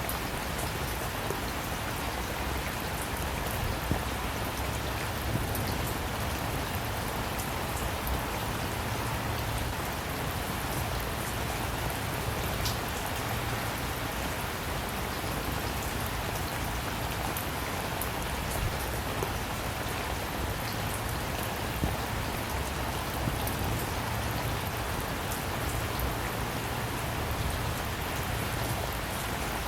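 Steady rain falling on a surface, an even patter with individual drops ticking now and then.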